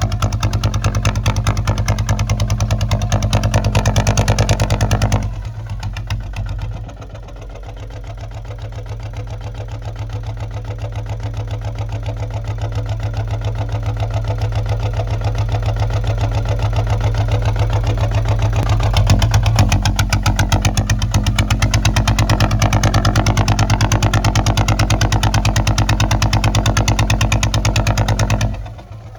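Kubota ZT155 single-cylinder diesel engine running with a rapid, even beat. It drops in level about five seconds in, builds back gradually over the next dozen seconds, and drops again just before the end.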